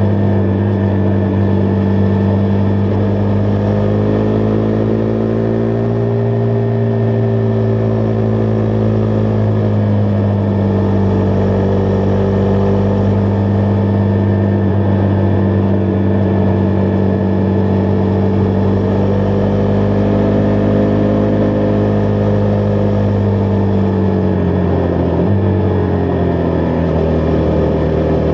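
Husqvarna Vitpilen 401's single-cylinder engine running under way at a steady pace, its pitch drifting gently up and down. About three seconds before the end the pitch drops suddenly and stays lower.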